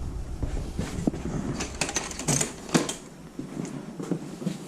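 Scattered clicks and light clatter of tools being handled, with a few sharper knocks about two seconds in.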